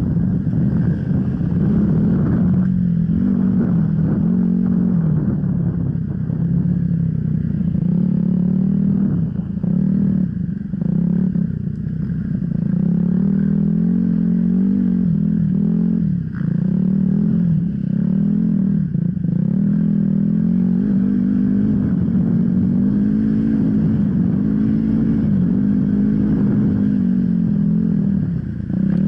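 Off-road enduro motorcycle engine running hard, its pitch rising and falling over and over as the throttle is opened and closed, with a few short drops in between.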